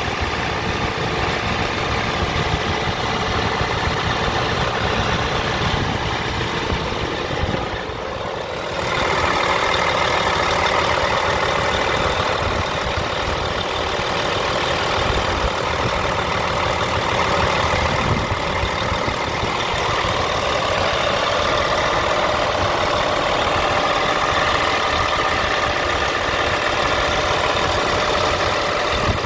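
Scania R450 truck's 13-litre straight-six diesel engine idling steadily. The sound dips briefly about eight seconds in and is fuller and louder after that.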